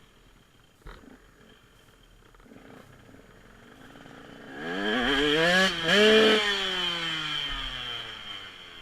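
Dirt bike engine revving as the bike rides past: the pitch climbs about halfway in, dips for a moment, then slowly falls and fades as it moves away.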